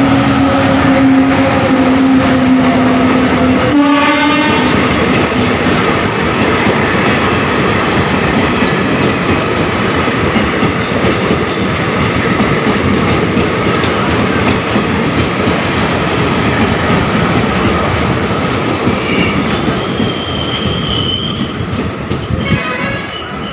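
Indian Railways electric locomotive's horn sounding one steady note for about four seconds. Then the continuous rumble and clatter of a passenger train of ICF coaches rolling past on the rails, with faint high squeals near the end.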